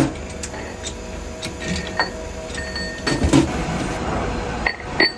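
Metal parts knocking and clinking against each other over a steady machine hum, with a few short metallic rings.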